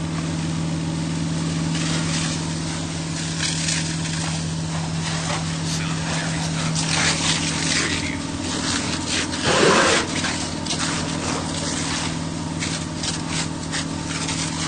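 Fire engine running steadily with a low hum while water hisses from its hose, the spray swelling and easing, with one loud surge about ten seconds in.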